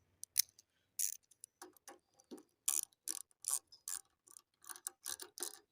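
Ratchet wrench clicking as it turns the ignition coil's mounting bolts on a Briggs & Stratton mower engine, in a fairly even run of about two to three clicks a second after a few scattered clicks.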